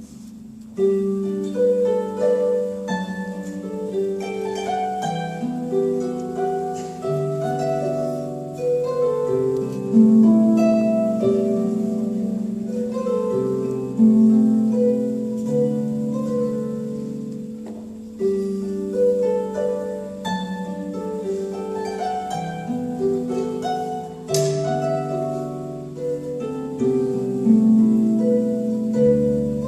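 Harp music: plucked strings ringing on in a flowing melody over lower chord notes, starting after a brief pause about a second in.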